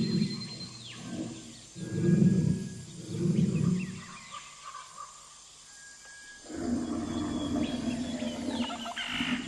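Deep animal calls: three pulses of about a second each, then a longer call lasting about three seconds near the end, with birds calling higher up throughout.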